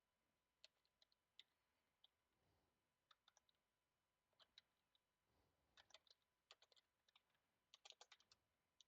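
Faint computer keyboard typing: scattered key clicks in short, irregular runs, busiest near the end.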